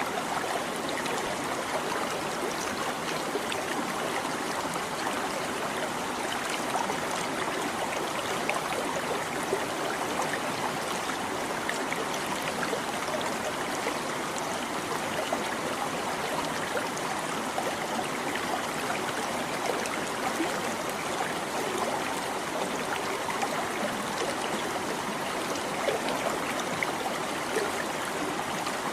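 A small stream babbling and trickling over stones, a steady rush of water with little splashes and gurgles.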